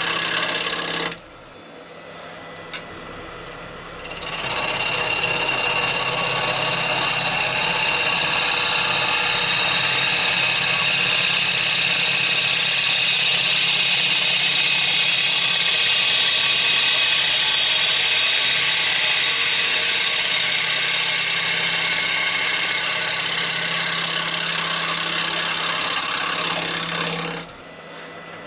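Wood lathe running while a bowl gouge cuts a spinning rowan bowl blank: a loud, steady hissing cut over the lathe's motor hum. The cut stops about a second in and starts again at about four seconds, then drops out near the end, leaving the lathe humming.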